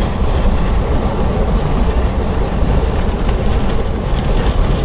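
Loud, steady low rumble with a rushing hiss: strong storm wind and vehicle noise, with a few faint ticks.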